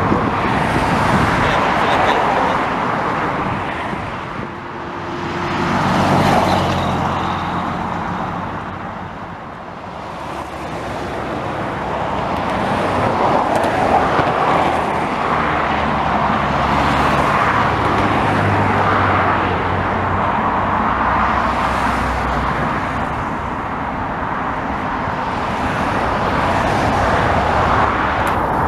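Steady expressway traffic: cars and trucks passing in a continuous rush, one vehicle swelling past about six seconds in, with low engine hum underneath.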